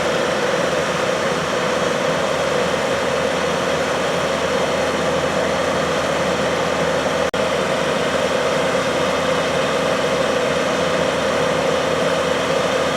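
An engine running at a steady idle, an even hum that does not rise or fall, with a brief dropout about seven seconds in.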